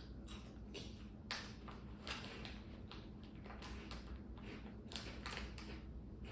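Crunchy corn puff snacks being chewed: a run of short, crisp crunches at irregular intervals, faint and close.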